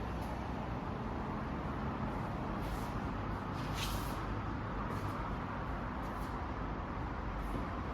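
Yamaha Bolt R-spec's air-cooled V-twin engine idling steadily.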